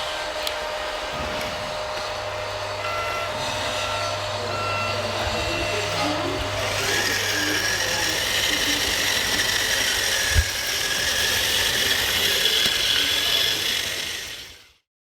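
Radio-controlled model truck working, with a reversing beeper sounding three short beeps, then a high steady electric-motor whine from about halfway. The sound fades out just before the end.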